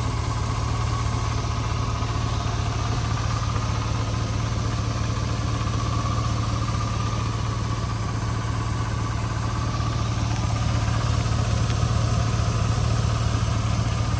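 A 2002 Chevrolet Avalanche's V8 engine idling steadily, a little louder in the last few seconds.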